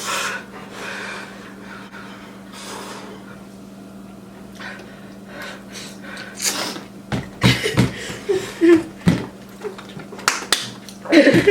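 People eating fiery-hot ramen noodles: slurping, lip smacks and sharp breaths and gasps from the heat. It is soft at first, then busier and louder from about halfway.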